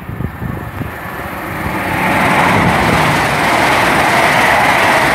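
Express passenger train passing through the station at speed. The rushing noise swells over the first two seconds, then holds loud and steady.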